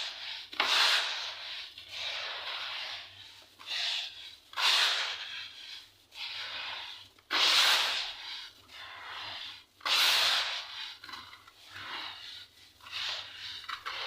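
Balls and shapes of damp, packed sand crumbling, in a series of soft, crunchy surges about every two to three seconds.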